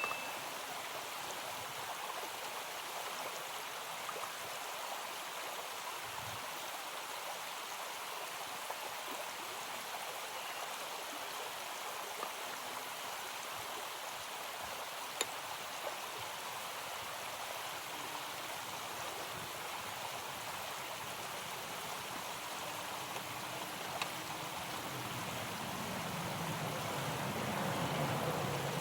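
Steady rush of flowing water, like a stream, with two faint clicks. It grows a little louder near the end.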